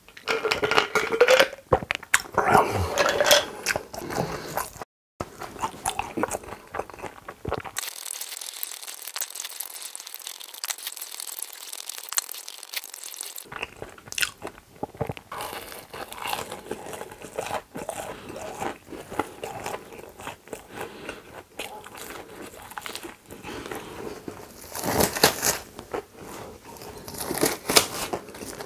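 Close-miked eating sounds: loud gulping of a drink for the first few seconds, then chewing and crunching of food with the mouth closed, in irregular small clicks and smacks.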